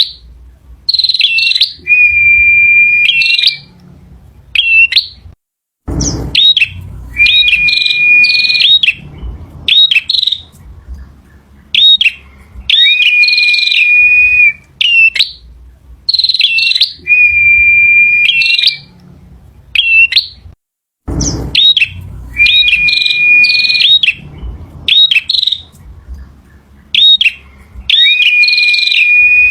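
Male prinia (prenjak) singing over and over: phrases of sharp, quick notes around a held, level whistle, the same sequence repeating about every 15 seconds. A short dropout and a low thump come about 6 seconds in and again about 21 seconds in.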